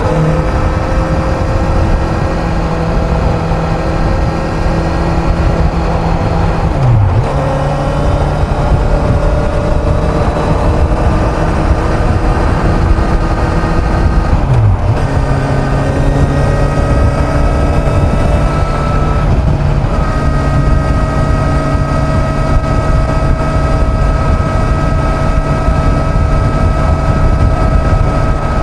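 Kawasaki Z900's inline-four engine running at highway speed under heavy wind rush. About seven seconds in and again about halfway, the engine note dips briefly as the rider shifts gear. Between the shifts the pitch climbs slowly, then holds steady at cruise over the last third.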